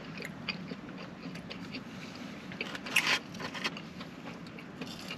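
Close-up eating sounds: a person biting and chewing fast food, with many small wet mouth clicks and one louder sharp click about three seconds in.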